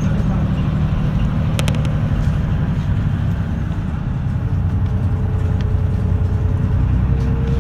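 A route bus's engine and road noise heard inside the passenger cabin: a steady low drone, with a brief click about a second and a half in and a faint whine rising near the end.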